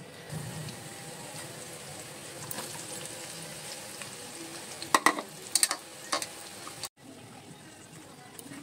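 Chopped onion frying in hot oil in a steel kadai with diced potato and carrot, a steady sizzle, with a metal spatula scraping and clanking against the pan a few times about five to six seconds in. The sizzle cuts off abruptly about seven seconds in.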